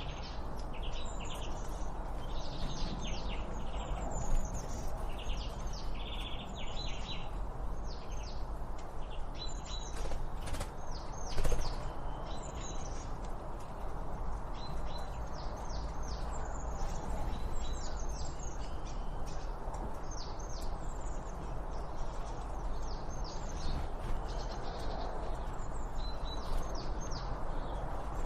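Songbirds chirping and twittering: many quick, downward-sweeping high notes, overlapping and continuous, over a steady background hiss of outdoor noise.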